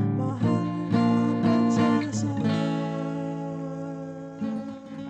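Acoustic guitar strumming chords in an instrumental break of a song, ending on a chord that rings and fades.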